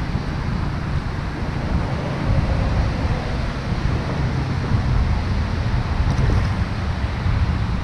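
Strong wind buffeting the microphone in a steady low rumble, over a constant rushing hiss of blustery weather.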